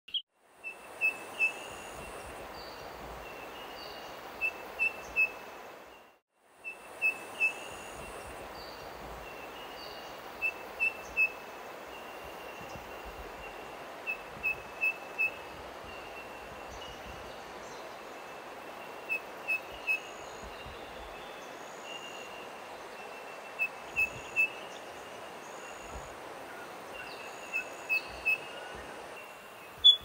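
A bird calling in short piping notes held on one pitch, two or three at a time every few seconds, over a steady hiss of bush ambience. The sound drops out briefly once, and a single louder note comes at the very end.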